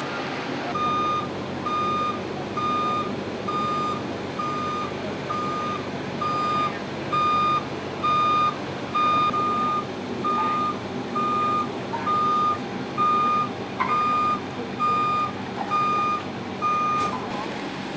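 A vehicle's reversing alarm beeping steadily, a single-pitch tone about once a second, stopping near the end, over the running of vehicle engines.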